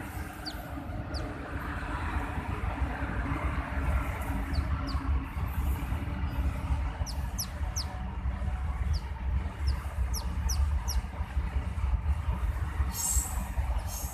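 A small bird giving short, high, falling peeps at irregular intervals, over a steady low rumble. A brief hiss comes near the end.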